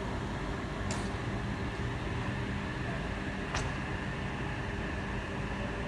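Steady electric hum and noise of a Sydney Trains H-set (OSCAR) electric train at the platform, with two short clicks, about one second and three and a half seconds in.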